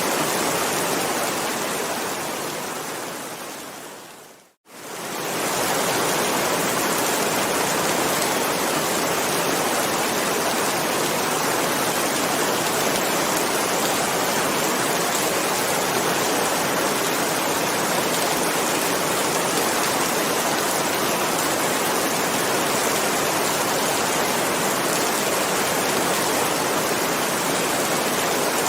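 Steady rain, a dense even hiss of falling water. It fades out to a moment of silence about four seconds in and swells straight back, the join of a looped recording.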